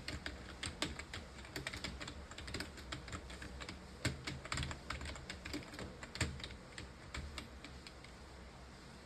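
Typing on a computer keyboard: a fast, uneven run of key clicks that thins out and stops shortly before the end.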